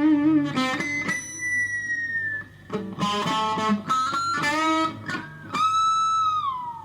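Fujigen (FGN) Stratocaster-style electric guitar played straight into a Fender Studio Valve tube amp. It plays single-note lead phrases with string bends and vibrato, ending on a long held note that bends down.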